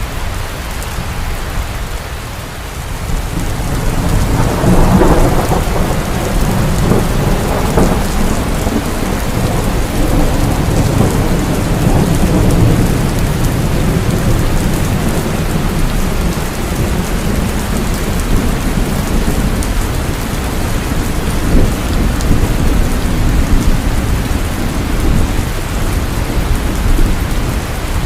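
Heavy rain falling steadily with thunder rumbling low underneath; the rumble swells about four seconds in and rolls on through the rest.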